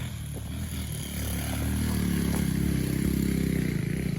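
A pit bike's small single-cylinder engine revs up and down as it is ridden around the dirt track. It grows louder about midway through.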